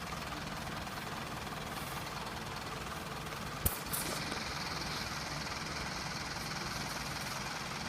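Steady low rumble of an idling diesel train at a station, with one sharp click about three and a half seconds in.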